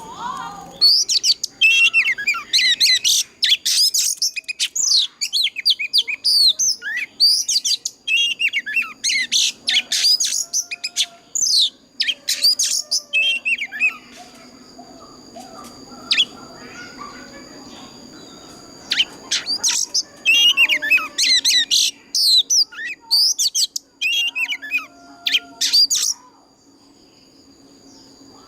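Oriental magpie-robin singing a loud, varied song of rapid whistles and chirps in long bursts, with a sparser lull of a few seconds in the middle. Two steady high tones run underneath.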